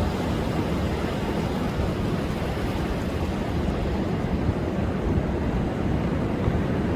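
Rough sea surf breaking on a beach under a high wind and wave advisory: a steady low rumble of waves that doesn't let up.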